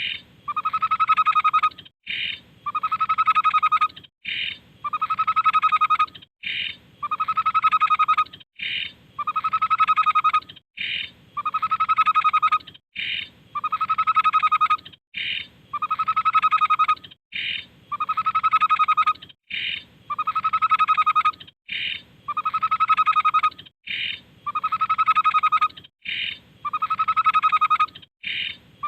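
Tepus babbler song repeated at even intervals of about two seconds: each phrase is a slightly trilled whistled note of about a second, followed by a short higher note.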